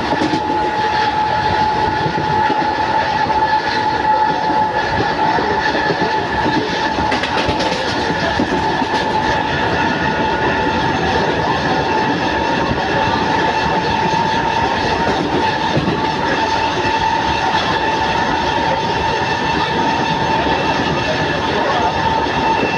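Mumbai local train running steadily: continuous rail noise with a steady whine over it.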